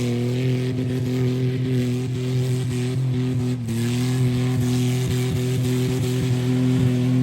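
Car engine held at steady high revs, with a brief dip in pitch about halfway through.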